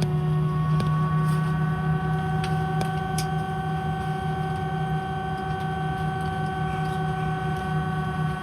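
Steady droning hum inside an Airbus A319's cabin on the ground before takeoff, with several steady whining tones above it and a few faint clicks.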